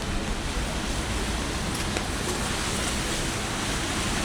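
Heavy typhoon rain and gusting wind, a steady dense roar, with a low rumble of wind on the microphone.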